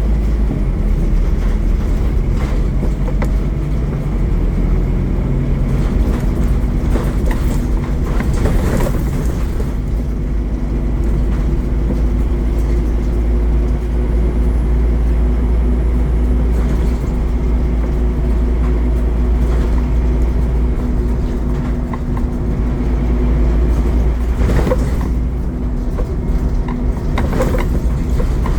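Scania N230UD OmniCity double-decker bus heard from on board while under way: its five-cylinder diesel engine runs steadily with a low rumble. The engine note changes about five seconds in, and brief rattles and knocks from the bodywork come through around eight seconds in and twice near the end.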